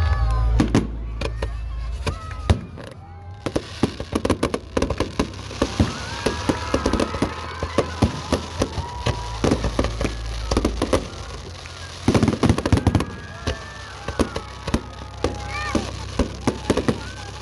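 Aerial fireworks going off: rapid strings of bangs and crackling, with dense volleys in bursts, over the voices of onlookers.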